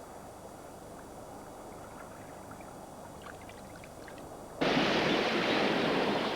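Faint, low water ambience, then about four and a half seconds in a sudden loud rush of ocean surf breaking.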